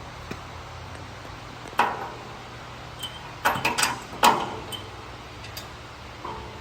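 Metal clanks and clinks as the mower's belt guard and its bolts are handled and fitted by hand. There is one clank about two seconds in, a quick run of clinks around three and a half seconds, and the loudest ringing clank just after.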